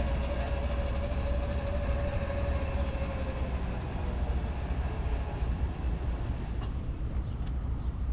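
BNSF diesel-electric locomotive running with a steady, heavy low rumble, with a steady whine over it for the first few seconds.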